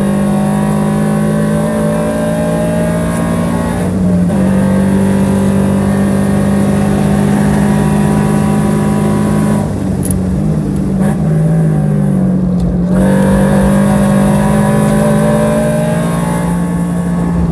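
2022 Toyota GR86's flat-four engine heard from inside the cabin at racing speed, pulling hard with a brief break about four seconds in. About ten seconds in it lifts off and the pitch wavers as the car brakes and gears down for a corner, then it comes back on the throttle and pulls again.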